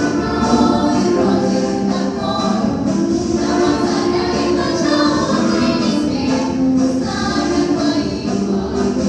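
A choir with instrumental backing sings a march song, several voices holding sustained, changing notes together.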